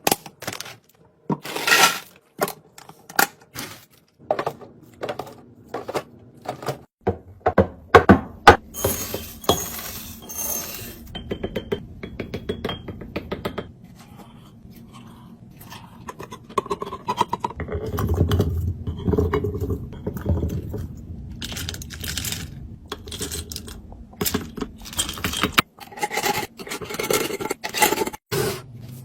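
Snack and drink containers being set down and arranged while a mini fridge is restocked: a quick run of clinks, knocks and scrapes of hard packaging, busiest in the first third and again near the end.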